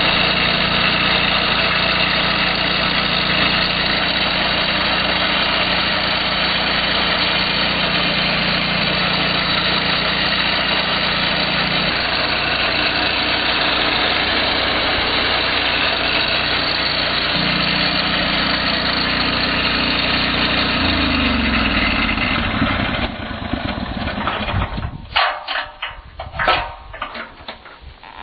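Lucas portable sawmill's engine running steadily while it drives the sanding disc over a timber slab, then slowing down and dropping away about 21 to 23 seconds in. A few sharp metallic clinks and knocks follow near the end.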